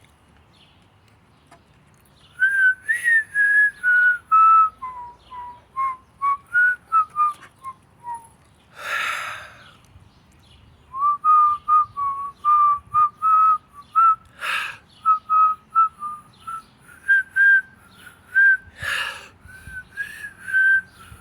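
A woman whistling a tune by mouth, a melody of short, clear notes starting about two seconds in. The tune breaks off a few times for audible breaths.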